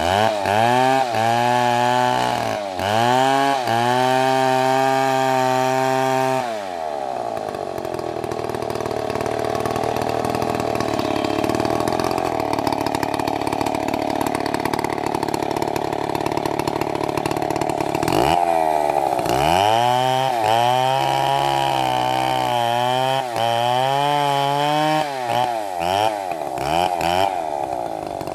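Two-stroke chainsaw engine revved hard again and again, its pitch climbing and dropping with each pull of the throttle. Through the middle it holds a steadier, rougher note, then goes back to repeated revving, with quick short blips near the end.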